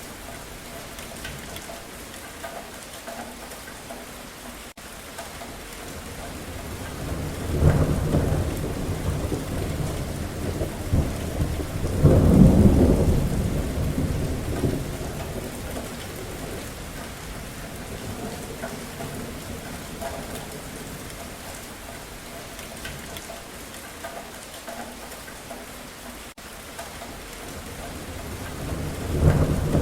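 Steady rain with thunder: two deep rolls of thunder about 8 and 12 seconds in, each swelling and fading over a few seconds, and another starting near the end.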